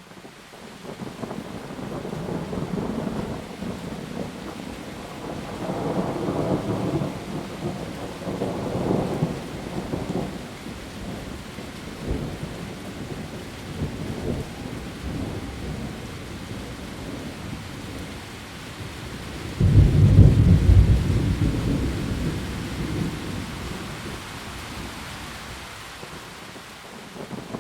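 Heavy rain falling on leaves, a steady hiss, with thunder rumbling through it in slow swells; the loudest, deepest roll comes about two-thirds of the way in.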